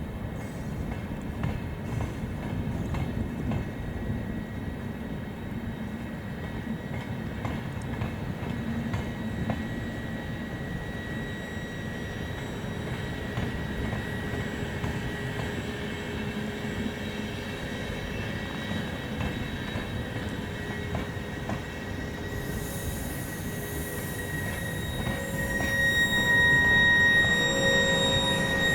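Train rolling along the track: a steady rumble with thin, high steady tones of wheels squealing over it. It grows louder and more tones join in the last few seconds.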